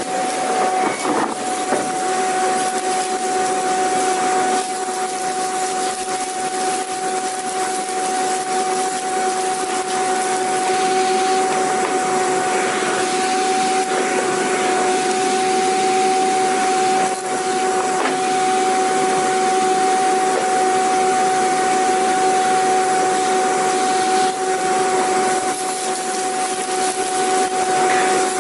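Vacuum cleaner running steadily: a loud, even rushing of air with a steady motor whine, and a second, lower hum joining about two seconds in.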